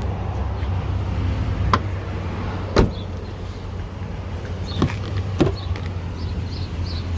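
Steady low rumble of a vehicle, with four sharp clicks or knocks spread through it.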